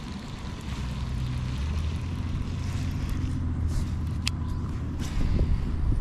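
A low engine hum that builds about a second in and eases near the end, like a motor vehicle passing, with a sharp click about four seconds in.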